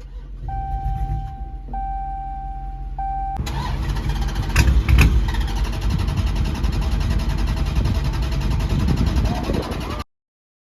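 Warning chime sounding in the cabin of a Dodge Charger Scat Pack after its 392 HEMI V8 stalled. About three seconds in, the engine is cranked and fires, restarting. It runs loudly, surging briefly about a second after it catches, until the sound cuts off abruptly.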